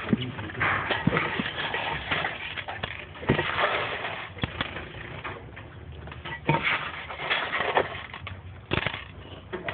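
Small caged birds (canaries and Bengalese finches) chirping in bursts, mixed with scattered clicks and rustles.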